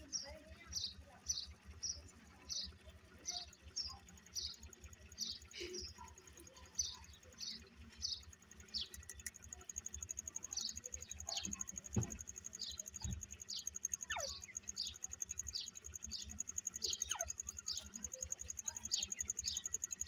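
A bird chirping in short, high notes about twice a second, with a couple of longer falling whistles in the second half. A steady high-pitched tone joins about halfway through.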